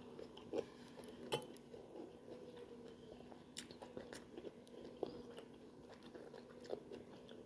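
Faint close-up chewing of a mouthful of meatball soup, with soft irregular mouth clicks over a faint steady hum.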